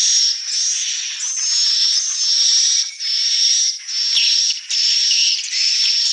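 Swiftlet calls: a high, hissing, twittering chirr with a thin steady whistle over it, repeated in phrases of about a second separated by brief breaks.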